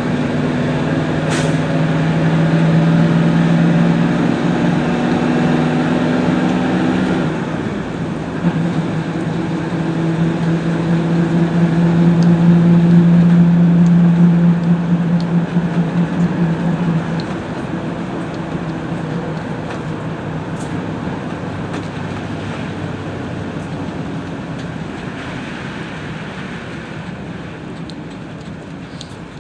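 PAZ-32054 bus's V8 petrol engine running under load, heard from inside the cabin. There is a change in engine note about seven seconds in, then it pulls louder again until about halfway through, and afterwards it eases off and gets quieter, as when the bus coasts or slows. A single sharp click sounds early on.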